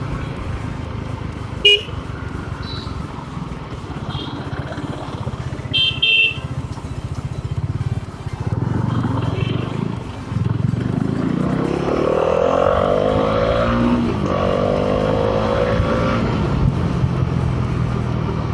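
Bajaj Dominar 400's 373cc liquid-cooled single-cylinder engine heard from the saddle while riding, with a few short horn beeps in the first six seconds. About ten seconds in, the engine revs up hard under acceleration, with a brief drop near the middle for a gear change, then climbs again.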